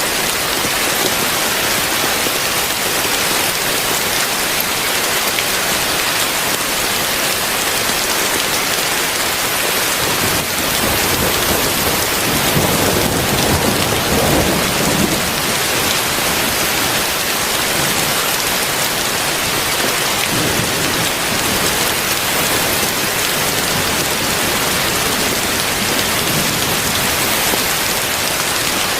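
Heavy rain falling in a steady, loud hiss, with a low rumble of thunder swelling and fading about halfway through.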